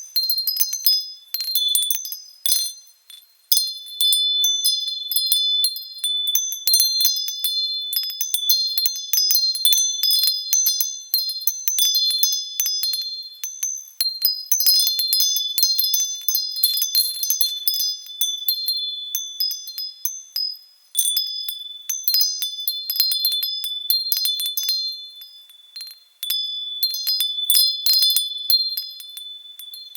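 Wind chimes ringing in the breeze: irregular, overlapping strikes of several high tones that ring on between hits.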